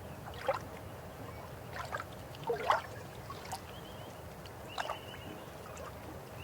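River water flowing steadily, with a handful of irregular gurgles and splashes standing out above the rush.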